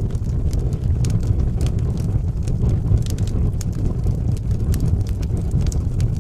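Wood fire burning in a fireplace: a steady low rush of flame with frequent sharp, irregular crackles and pops.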